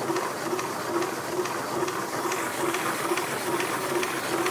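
Rovinka 1.25-litre tabletop electric stone wet grinder running, its stones grinding soaked dal into batter, with a steady churning pulse about twice a second.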